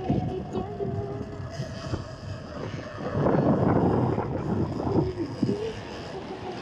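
Surron electric dirt bike's motor whining while riding on sand, the whine slowly falling in pitch, with wind buffeting the microphone. The wind noise swells louder about three seconds in.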